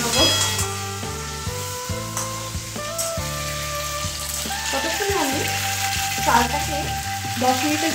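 Potato pieces frying in hot mustard oil in a steel kadai, a steady sizzle with spatula stirring, under background music.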